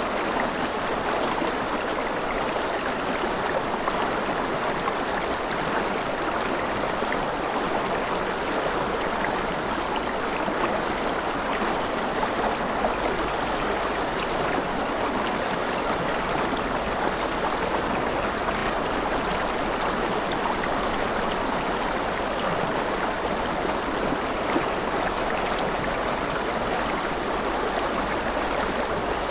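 River water flowing and splashing: a steady, even rush with small splashes and trickles throughout.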